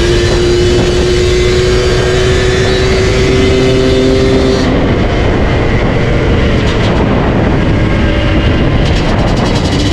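Yamaha DT125 two-stroke single-cylinder engine running loud through an aftermarket MCF tune pipe (expansion-chamber exhaust). For the first four and a half seconds it holds a steady note that creeps slightly higher; then the sound turns rougher and less bright, and a steady note returns near the end.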